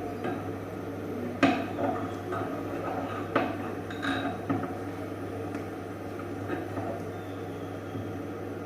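A few sharp clinks of a kitchen utensil knocking against cookware while fried rice is being made. The two loudest come about a second and a half in and again at three and a half seconds, over a steady low hum.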